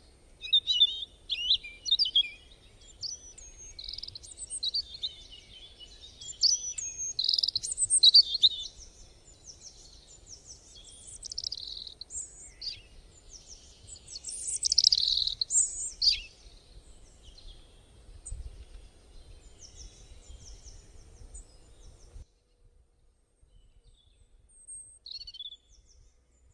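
Several birds chirping and calling in quick, overlapping phrases of short whistles and trills. The sound cuts off suddenly about 22 seconds in, leaving one faint call near the end.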